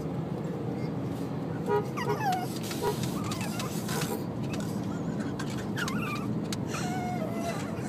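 A dog in a moving car giving short honking, whining cries several times, their pitch bending up and down, over steady road noise in the cabin.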